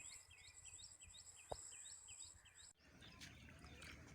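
Faint bird calling, a short chirp repeated about three times a second, over a steady high-pitched insect buzz; both cut off abruptly a little past halfway.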